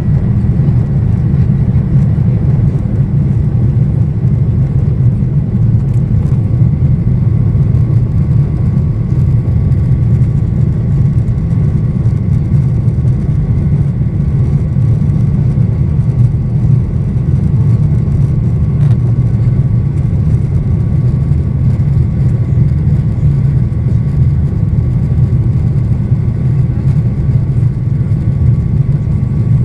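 Boeing 737-800's CFM56 jet engines heard from inside the passenger cabin: a loud, steady rumble with a faint steady whine above it.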